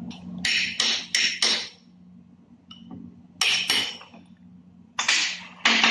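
Hammer blows on metal: about eight sharp, ringing strikes in three bunches, over a low steady hum.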